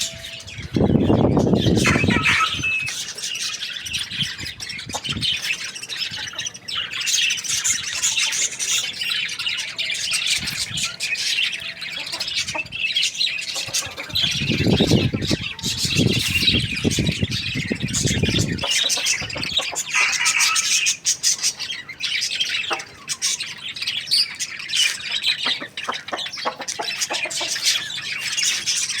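Birds chirping and squawking without a break, with two louder, lower stretches: one about a second in and a longer one around the middle.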